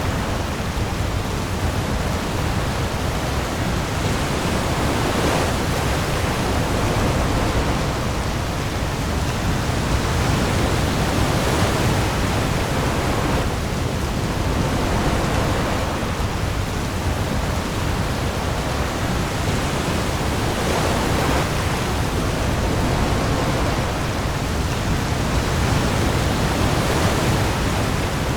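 Heavy rain falling on the sea with waves, heard as a dense, steady hiss over a deep low rumble, swelling a little every few seconds.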